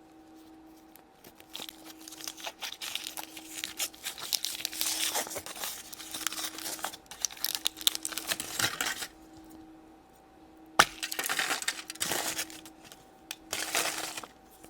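Foil wrapper of a chocolate surprise egg crinkling and tearing as it is peeled off, then a sharp click about eleven seconds in followed by shorter rustles. A faint steady hum lies underneath.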